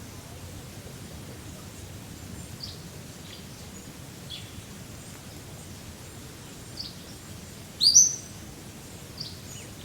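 Songbirds chirping over a steady low background hiss of wind in a forest: short high chirps every second or so, and one louder call with a quick rising sweep near the end.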